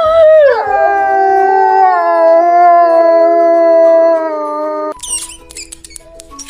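A dog howling: one long howl that drops in pitch about half a second in, then holds steady and stops about five seconds in.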